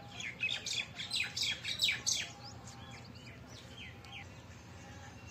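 Small birds chirping: a quick run of short, falling chirps, dense for about the first two seconds, then scattered, dying away about four seconds in.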